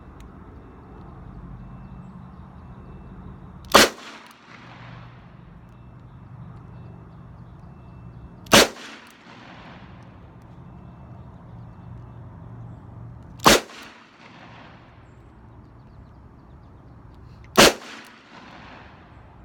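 Four single gunshots from a .357 Magnum revolver, fired slowly about four to five seconds apart, each a sharp crack with a brief echo.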